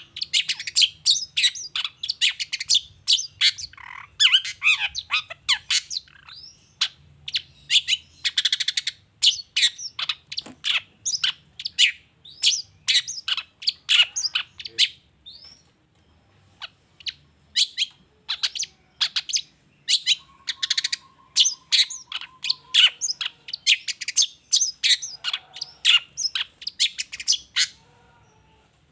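Long-tailed shrike (cendet) singing a fast, varied chattering song of sharp, high chirps and calls, many notes a second, with a short lull about halfway through.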